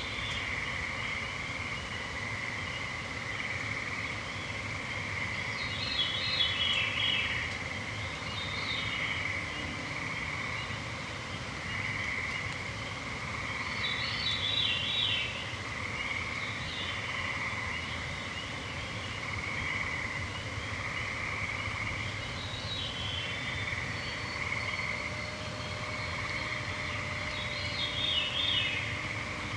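A chorus of gray treefrogs trilling steadily, in overlapping pulsed trills. Short songbird phrases of falling notes come every few seconds over them, about six times.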